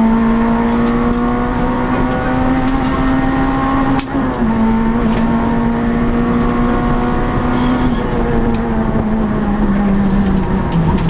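Citroën Saxo Group N rally car's four-cylinder engine pulling hard at high revs, heard from inside the stripped cabin. The revs drop sharply at a quick gear change about four seconds in, climb again, then ease off near the end.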